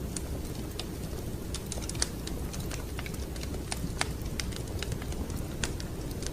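Wood fire crackling in a fireplace: irregular sharp pops and snaps over a steady low rumble, the loudest pops about two and four seconds in.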